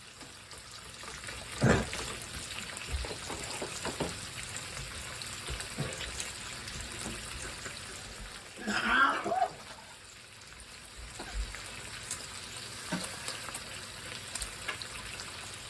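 Bacon sizzling in a frying pan, a steady hiss, with a couple of sharp clunks of cookware, one about two seconds in and another at the end, and a brief vocal sound about halfway through.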